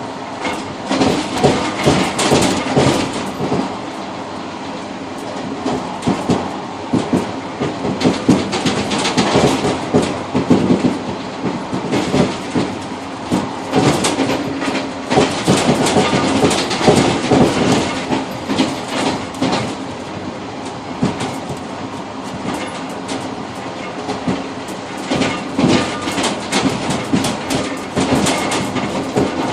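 Passenger train's carriage running along the track, heard from the rear cab of the tail car: wheels clattering over rail joints with irregular runs of knocks and rattles over a steady rumble, easing off briefly a few times.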